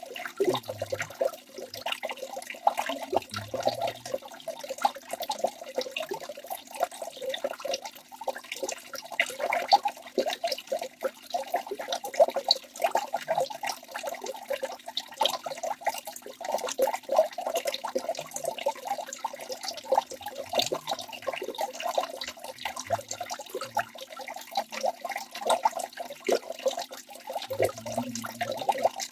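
Small waterfall splashing continuously: a dense, even patter of falling water with no pauses.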